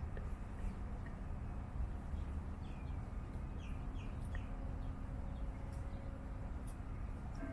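A few faint, short, falling bird chirps, bunched about three seconds in, over a steady low outdoor rumble.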